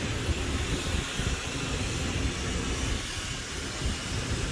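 Wind rushing over the microphone mixed with the rumble of bicycle tyres rolling over boardwalk planks: a steady, noisy rush with uneven low thumping.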